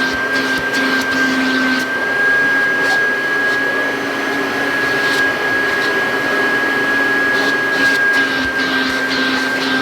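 1984 Kirby Heritage vacuum cleaner running with its hose and upholstery attachment, giving a steady high whine. A lower hum comes and goes, with short rushes of suction hiss near the start and again near the end as the nozzle moves.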